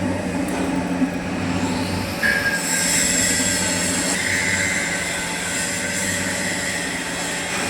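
Lathe running with a steady hum. About two seconds in, a high metallic squeal joins it and holds for several seconds.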